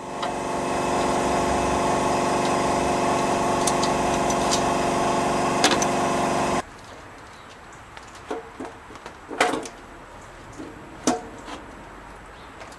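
Car alternator with worn, noisy bearings spinning on a running engine: a steady hum made of several steady tones that builds over the first second. It cuts off abruptly about six and a half seconds in, and a few clicks and knocks follow.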